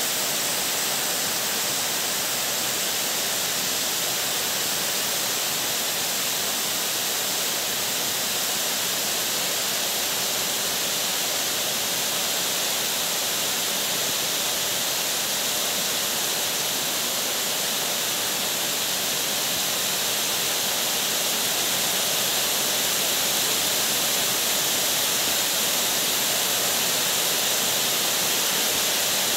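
Heavy rain falling steadily, a dense even hiss that grows slightly louder about twenty seconds in.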